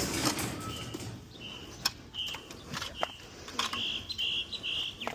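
A bird calling: a series of short, high repeated notes that come longer and closer together near the end. A few sharp clicks or knocks fall in between.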